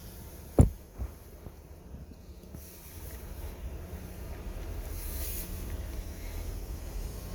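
A sharp knock, then a steady low rumble with a faint hum that grows a little louder.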